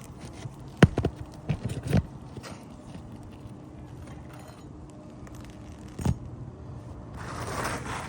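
Hand tools knocking on an asphalt shingle roof during a shingle repair: a quick cluster of sharp knocks about a second in and one more a few seconds later, then a short scraping rustle of shingle material near the end.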